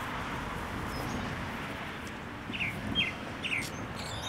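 Small birds chirping: a few short, quick chirps in the second half, over a steady background hiss.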